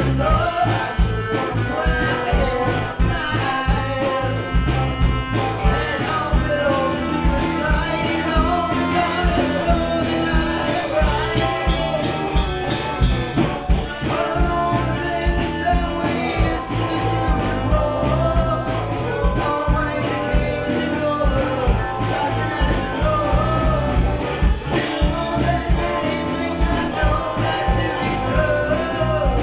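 Live gypsy rock band playing a song: a voice singing over guitar, bass and drums with a steady beat.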